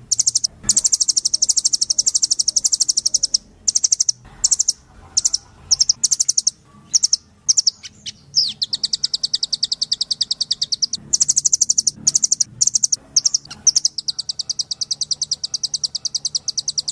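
Blue nuthatch song: long, rapid trills of high, evenly repeated notes, broken in the middle by a run of shorter bursts, then resuming as long trills.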